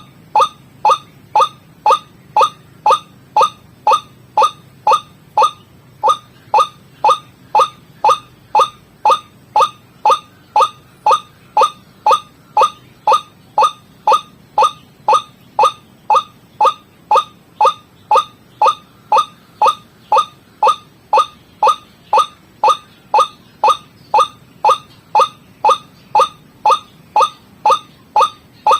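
White-breasted waterhen (ruak-ruak) lure call: short rising notes repeated monotonously at about two a second, the recording played to attract waterhens.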